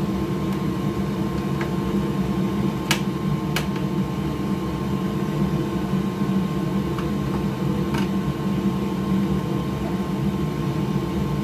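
Steady whirring hum of a fan or small motor in the workbench area, with a few light clicks of plastic console parts and screws being handled during reassembly.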